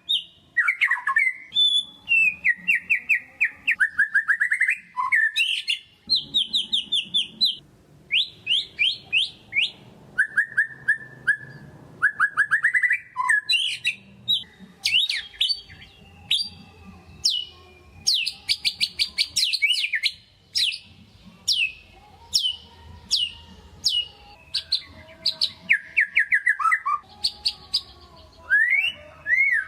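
White-rumped shama singing: phrase after phrase of rapid repeated sharp notes, trills and gliding whistles, with brief pauses between phrases.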